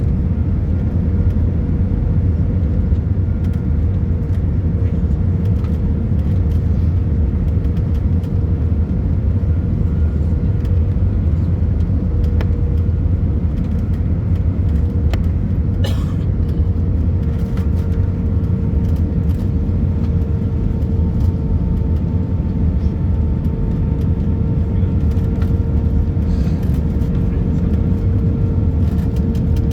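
Steady interior cabin rumble of an Airbus A319-111 on the ground after landing, taxiing with its engines at idle, with a steady hum over the rumble. A single short click comes about halfway through.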